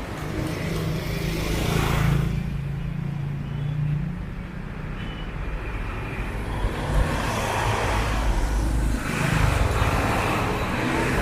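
Street traffic: motor vehicles passing close by on a narrow road. A low engine rumble runs underneath, with louder swells of engine and tyre noise as vehicles go past, about two seconds in and again twice in the second half.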